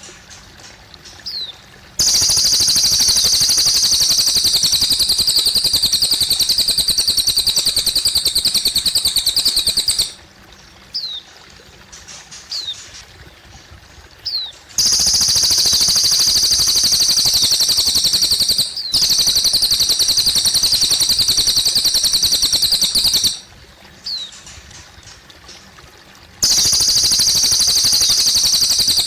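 Cililin bird singing: long, very fast, high-pitched trills lasting several seconds each, in three bouts. In the pauses between the bouts there are short falling chirps over faint trickling water.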